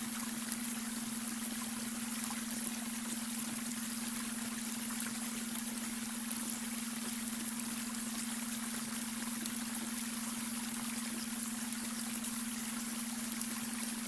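Babbling brook running steadily, with an even splashing hiss of water. Under it runs a steady low hum, the beta-wave brainwave tone mixed into the track.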